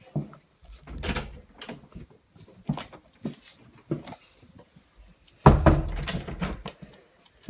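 Scattered knocks and clatter of objects being handled and moved, with a louder bump and rattle about five and a half seconds in.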